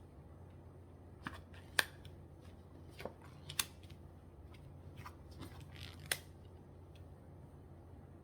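Tarot cards being drawn and laid down on a table: a scattering of light snaps and taps, the sharpest about two seconds in and again near three and a half and six seconds.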